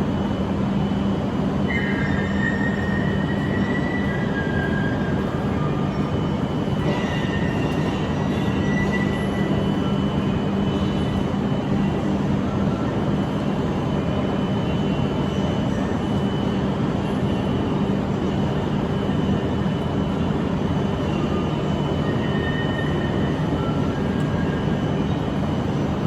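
Shinkansen train at the station: a steady, loud rumble with a constant low hum, and a high whine that rises briefly and fades about two seconds in, again around seven seconds, and once more near the end.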